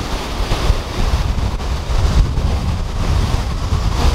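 Sea waves washing onto a beach, with wind buffeting the microphone in a gusty low rumble.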